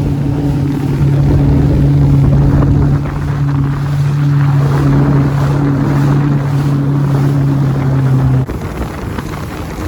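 Jet ski engine running at a steady pitch, with wind buffeting the microphone and water noise. The sound drops abruptly and gets quieter about eight and a half seconds in.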